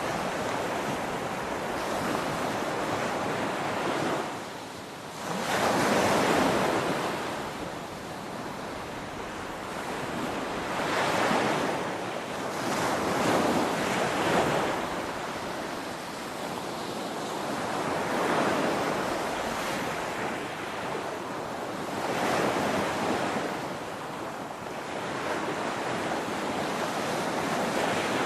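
Ocean waves crashing: a continuous wash of surf that swells and falls every few seconds, loudest about six seconds in, just after a brief lull.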